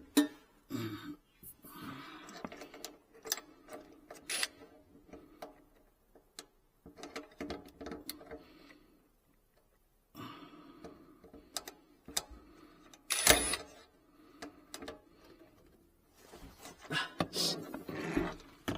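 Irregular clicks, knocks and rubbing of hand work fitting the sink's mounting clamp underneath the counter, with quiet gaps and one louder knock about 13 seconds in.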